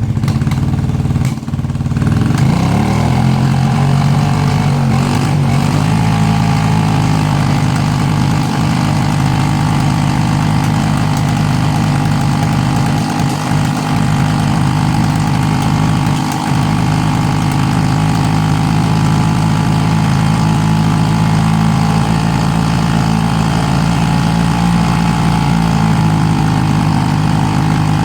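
1995 Honda Magna 250cc V-twin engine running at a fast idle just after starting, firing on only its front cylinder with the rear cylinder misfiring. The revs waver for the first few seconds, then settle and hold steady.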